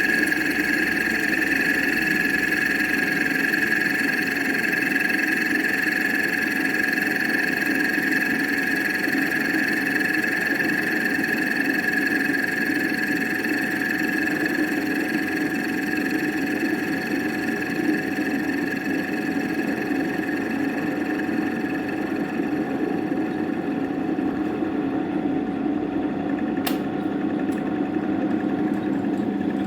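CNC router running steadily, a motor whine with a few held tones over a mechanical hum. A single sharp click near the end.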